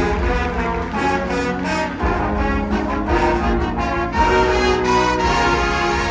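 Winter winds ensemble of brass and woodwinds playing loud, sustained chords, punctuated by sharp percussion hits every few tenths of a second.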